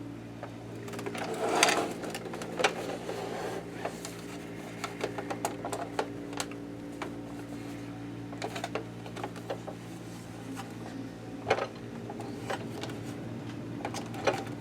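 Clicks, knocks and a brief scrape of hard plastic parts as the accessory toolbox of a Janome ME4014 sewing machine is worked loose and slid out, over a steady low hum.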